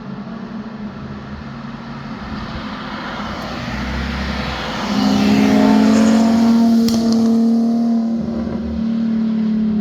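A car's engine and exhaust approaching and growing louder. From about halfway through it runs close by at a steady engine speed, with a brief dip in the note near the end.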